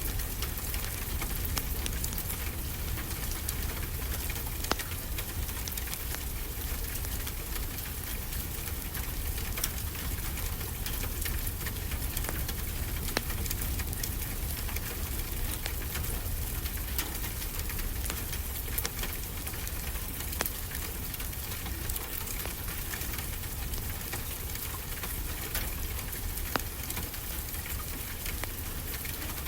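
Wood fire crackling, with scattered sharp pops, over a steady rush of ocean waves.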